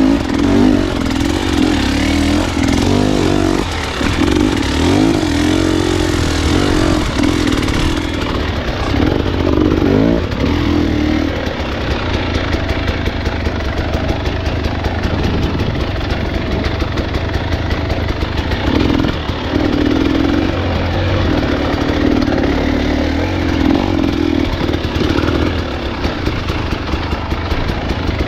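Dirt bike engine under way on a trail, the revs rising and falling repeatedly for the first ten seconds or so, then running more evenly at lower revs with a steady beat.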